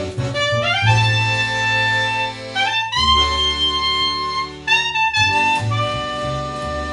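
Live instrumental music: an accordion plays three quick rising runs, each landing on a long held note, over a bass line.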